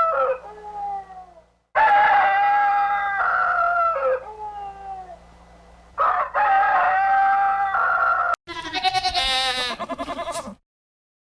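Rooster crowing: the falling end of one crow, then two full crows, each a long call that drops in pitch at the end. About eight and a half seconds in, a quavering bleat of about two seconds takes over and cuts off suddenly.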